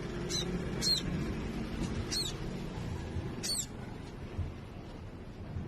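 Baby songbird nestling, just hatched and still featherless, chirping: four short, high, thin peeps that slide downward in pitch, spaced about a second apart in the first three and a half seconds.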